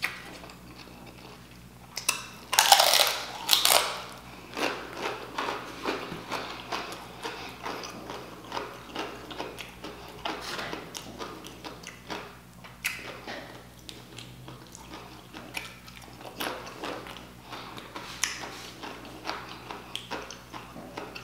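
Close-miked crunching of crisp tortilla chips being bitten and chewed, loudest in a few sharp crunches about two to four seconds in, then a long run of smaller crunchy chewing sounds.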